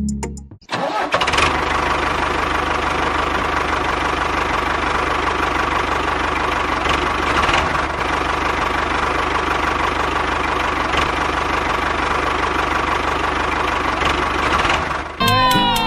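A small motor running steadily, starting about a second in after a brief drop-out and cut off near the end by guitar music.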